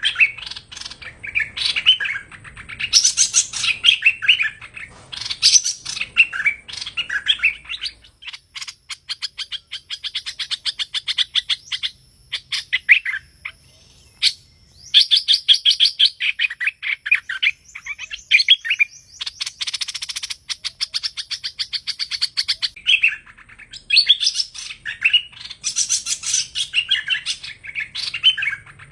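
Hoành hoạch birds calling: bright chirping phrases, with a long stretch of fast, rattling trills in the middle before the chirping returns near the end.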